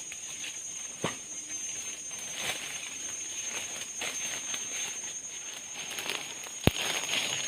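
Forest insects making a steady high-pitched buzz, with light rustling and two sharp clicks, one about a second in and a louder one near the end.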